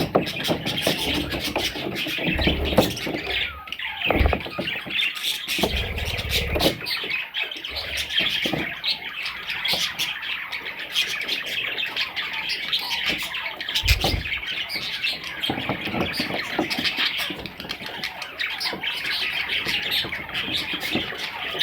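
A group of baby budgies chirping and squawking continuously, high chattering calls overlapping throughout, with a few low thumps in between.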